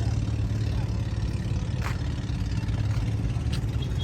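A ship's large diesel engine running steadily, a deep even hum.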